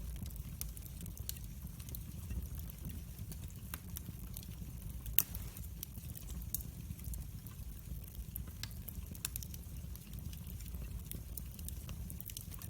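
Wood fire crackling: scattered small pops over a low steady rumble, with one louder pop about five seconds in.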